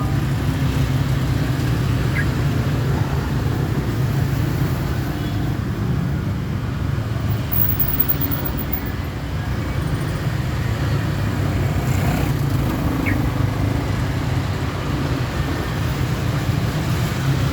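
Steady low rumble of road traffic or a running vehicle, with a couple of faint, very brief chirps.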